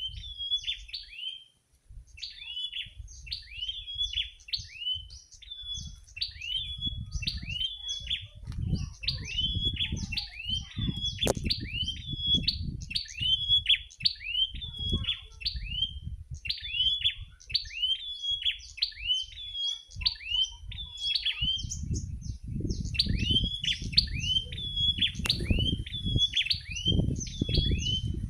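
Prinia (prenjak) singing: a long run of quick, high chirps, each falling in pitch, repeated over and over with a short pause about twenty seconds in. Underneath is a low rumble that grows stronger near the end.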